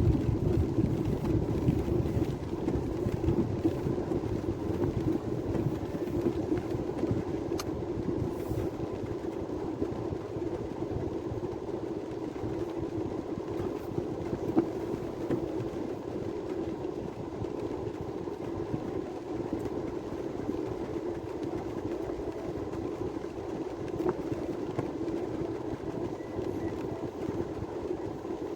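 Steady rushing of water in heavy rain, easing slightly over the first several seconds.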